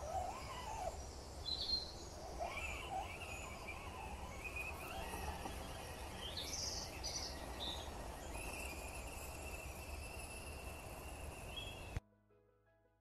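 Birds calling and chirping over a steady low outdoor rumble, with a held high note near the end. About a second before the end it cuts off suddenly to faint piano-like music.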